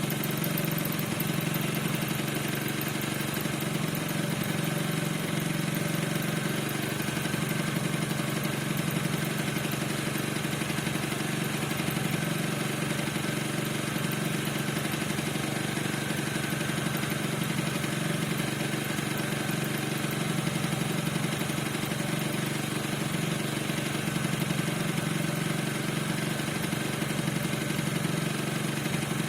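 Piaggio NRG 50 scooter's single-cylinder two-stroke engine idling steadily. The owner says the engine squeaks and does not know why.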